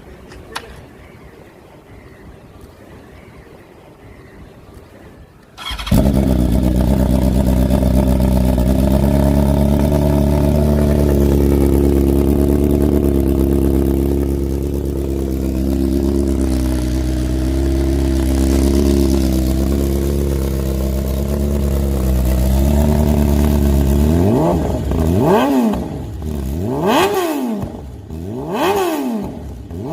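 Motorcycle engine starting about six seconds in after a quiet stretch, then idling steadily. Near the end it is revved in several quick throttle blips, the pitch shooting up and falling back each time.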